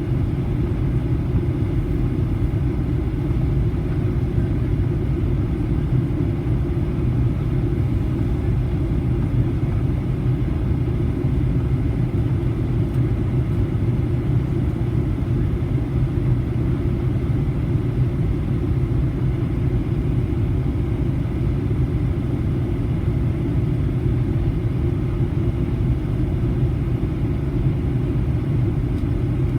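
Boeing 737-800 cabin noise heard from inside the passenger cabin: a steady, unbroken low rumble.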